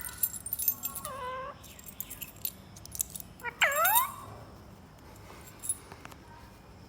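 Indian ringneck parakeet calling: a short dipping call about a second in, then a louder swooping call that falls and rises again, with small clicks and rattles around it.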